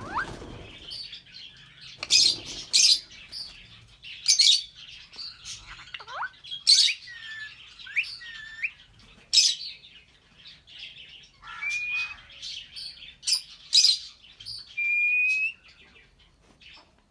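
A pair of albino red-eyed lovebirds calling: loud, sharp, shrill chirps every second or two with softer chattering between, and a steady whistle-like note held for about a second near the end.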